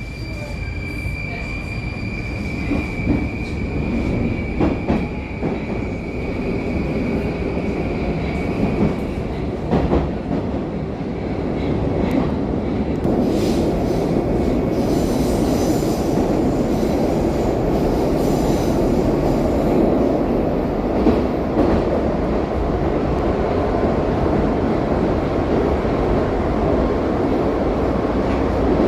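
Moscow Metro train running through a tunnel, heard from inside the car. A steady high whine carries through the first third. The running noise then grows louder and stays loud, with occasional clacks from the wheels and a brief high squeal around the middle.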